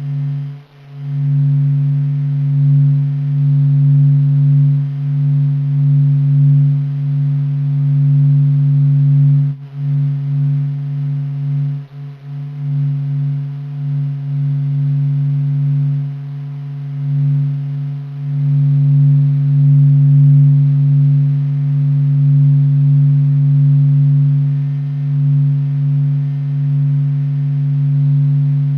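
Low, steady droning hum from NASA's sonification of the sun's vibrations. It swells and eases in loudness, with a brief dip about a third of the way in.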